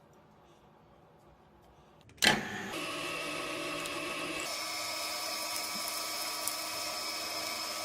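An electric power tool switches on about two seconds in with a sharp knock, then runs with a steady high whine made of several held tones. The tone shifts about halfway through.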